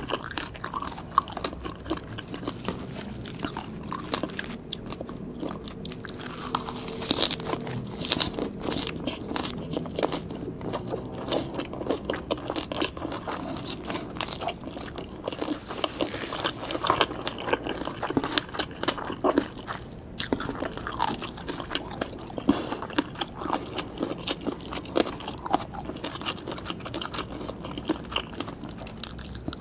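A person eating shredded green papaya salad by hand: a steady run of crunching and chewing, many short crisp crunches one after another.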